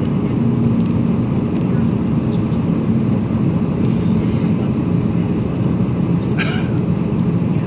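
Airbus A320-200 cabin noise at a window seat: a steady, even rumble of the engines and airframe with a low hum, plus a brief higher rustle about six and a half seconds in.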